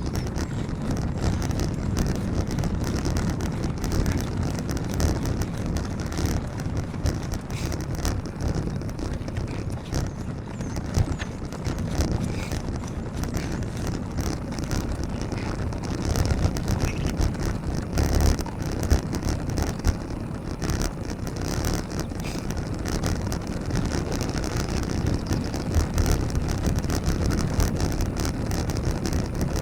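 Wind buffeting the microphone while cycling through traffic: a steady low noise of moving air and road sound.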